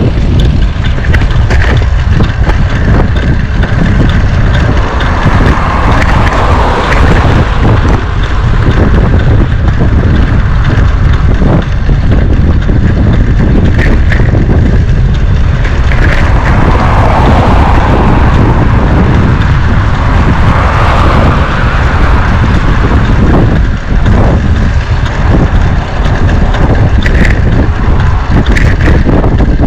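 Wind buffeting the microphone during a bicycle ride: a loud, steady low rumble of wind noise over rolling road noise, with a few scattered clicks and rattles.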